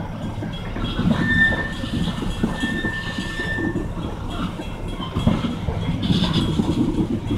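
Freight train of oil tank cars rolling through a grade crossing: a steady rumble and clatter of wheels over the rails, with a thin high squeal lasting a few seconds from about a second in.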